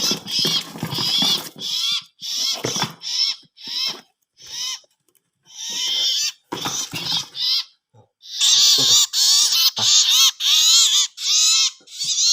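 A small caught wild bird giving harsh, high-pitched calls over and over while being handled, with rustling in the first couple of seconds. The calls come faster and louder from about eight seconds in, several a second.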